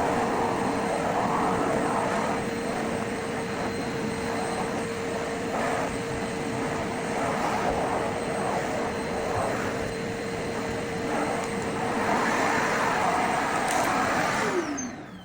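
Vacuum cleaner running, a steady motor whine under the rushing hiss of suction, the level swelling and dipping as it is worked. Near the end it is switched off and the motor whine falls away as it spins down.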